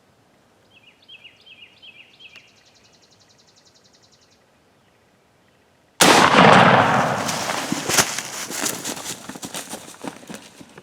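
A short run of turkey yelps, then a fast high trill. About six seconds in comes a sudden very loud shotgun blast, followed by several seconds of irregular thumps and rustling.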